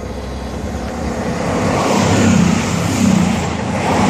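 Class 220 Voyager diesel multiple unit passing through at speed, its rushing wheel and engine noise growing louder.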